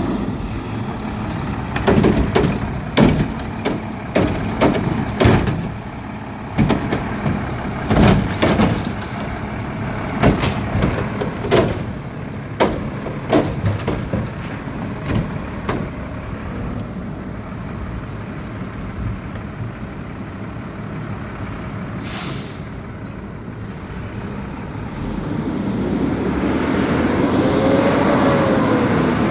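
Garbage truck on a recycling collection: a long run of clanks and crashes as recyclables are dumped into it, then a short air-brake hiss, and the diesel engine revving up near the end.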